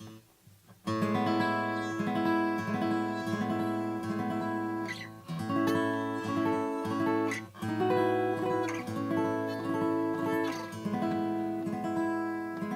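Acoustic guitar strumming a short progression of fancy up-the-neck chord voicings. It comes in about a second in, and each chord rings for a couple of seconds before the next.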